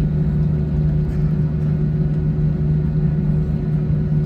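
Steady engine and air-system drone inside an Airbus A321 cabin after landing, a constant low hum with a fainter higher tone above it.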